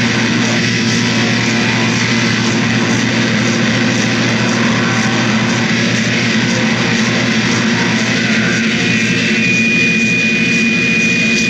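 Loud noise music: a dense, unbroken wall of distorted, cacophonous sound, with a thin high held tone coming in about nine seconds in.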